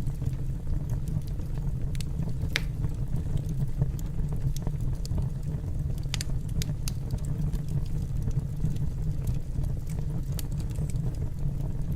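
Wood fire burning in a fireplace: a steady low rumble of flames with sharp crackles and pops at uneven intervals.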